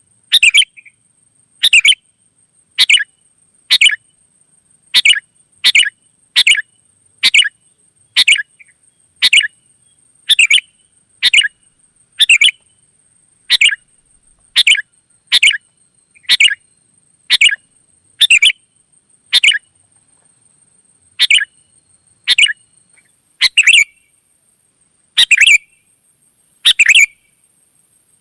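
Sooty-headed bulbul (kutilang) calling: short, loud, chirping phrases repeated about once a second, with a faint steady high whine underneath.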